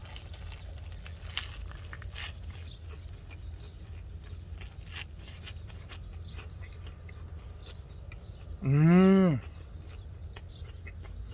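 A man chewing a mouthful of fresh lettuce wrapped around pork belly, with faint crisp crunching. About nine seconds in comes a short, loud closed-mouth "mmm" of enjoyment that rises and falls in pitch.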